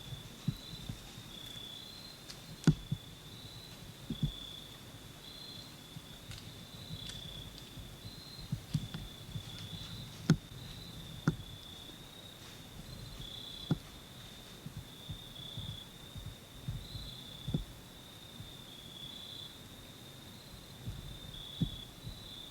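A steady, high-pitched insect trill that shifts slightly in pitch now and then, with scattered sharp clicks and ticks.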